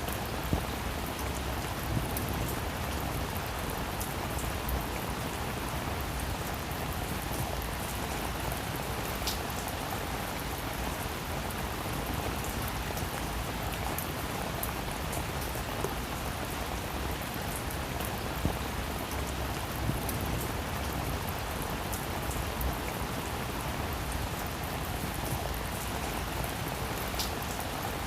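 Steady rain falling on a roof, with a few sharper single drop ticks here and there.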